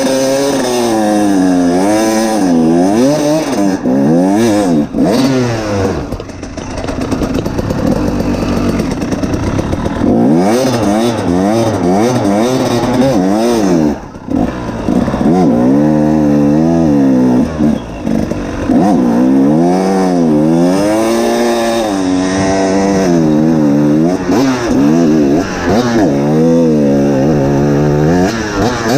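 Two-stroke dirt bike engine ridden hard, its pitch climbing and falling again and again as it revs out and shifts. It runs rougher and less even for a few seconds around six seconds in, and the throttle shuts briefly near fourteen seconds.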